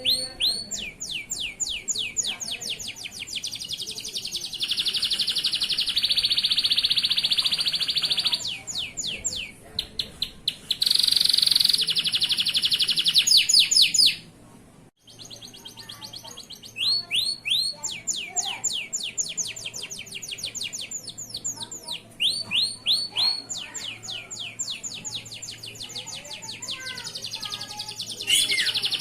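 Male canary singing a long, fast song of rapidly repeated chirps and rolling trills, broken by a short gap about halfway through.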